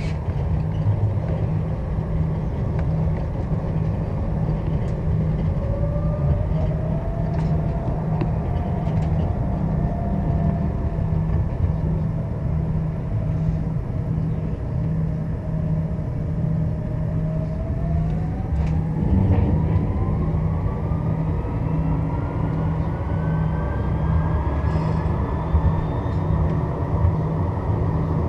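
Strasbourg tram running, heard on board: a steady low rumble with a thin electric motor whine. The whine rises steadily in pitch over the last third as the tram picks up speed.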